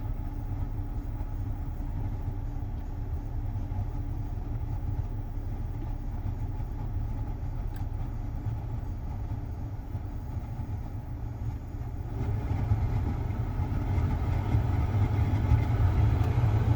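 Van's HVAC blower fan running on full over the low hum of the idling engine, getting louder about twelve seconds in. The fan can be heard running but is pushing almost no air out through the vents.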